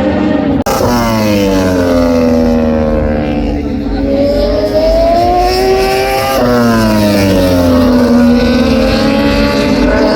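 MotoGP racing motorcycle's four-cylinder engine, its pitch dropping as the rider brakes and shifts down, then climbing as it accelerates hard out of the corner; this happens twice, with abrupt cuts about half a second in and again past six seconds.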